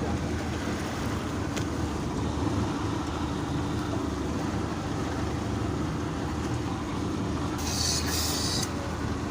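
Motorboat engine running steadily under way, a continuous low drone with wind and water noise. A brief hiss about eight seconds in.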